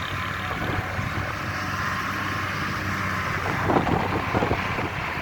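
Hino truck's diesel engine running steadily under wind noise on the microphone, with a few short crackles a little past the middle.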